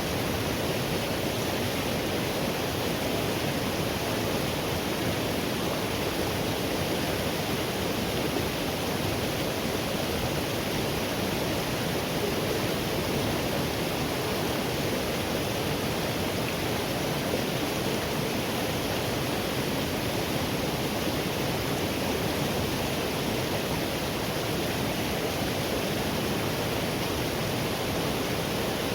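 Forest river water rushing steadily, with no change in level.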